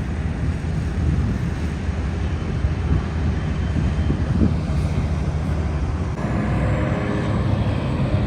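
Steady low drone of engines running, with a pitched engine hum joining in about six seconds in.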